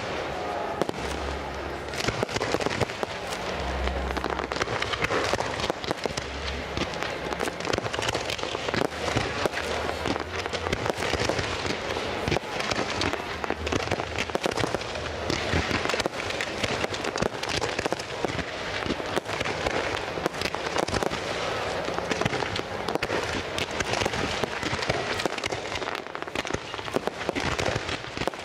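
Fireworks display: a dense, continuous barrage of crackling and popping bursts, with deep booms every few seconds.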